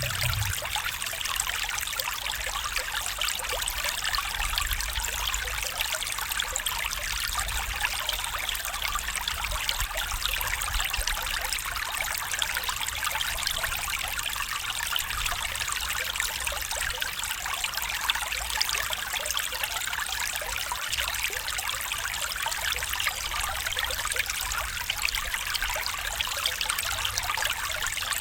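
A small stream trickling and babbling steadily over stones, an even, unbroken rush of water.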